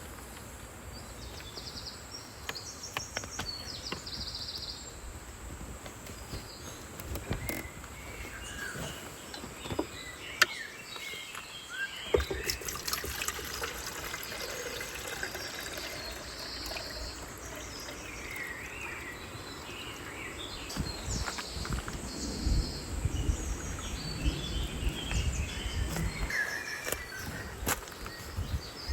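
Forest ambience: insects trilling in short repeated bursts and scattered bird chirps. A low rumble comes and goes, heaviest in the second half, with two sharp clicks about ten and twelve seconds in.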